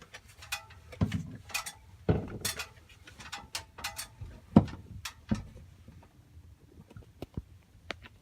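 Irregular light knocks and clicks, like things being handled, with the loudest knock about four and a half seconds in.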